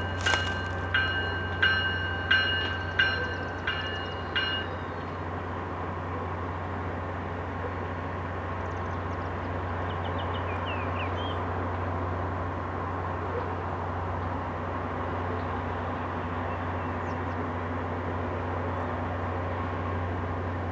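Railroad bell ringing with evenly spaced strikes, about one every two-thirds of a second, that stop about four and a half seconds in, over a steady low rumble that continues.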